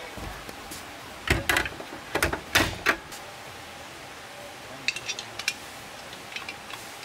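Objects being handled and set down, knocking and clattering: a cluster of loud knocks a little over a second in and again around two to three seconds, then a few light clicks later on.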